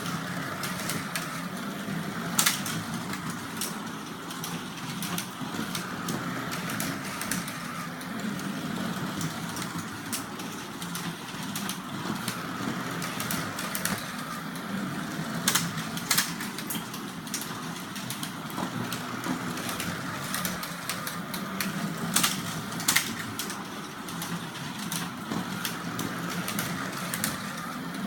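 Carrera slot cars running on a plastic track: the small electric motors whine, swelling and fading as the cars speed up and slow, with sharp clacks now and then.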